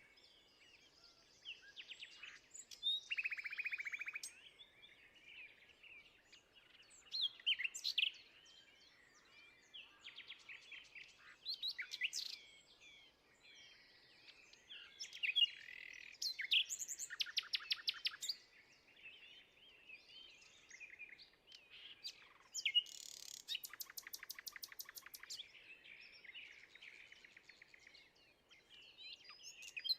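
Several songbirds singing and calling, with chirps, sharp whistles and fast buzzy trills.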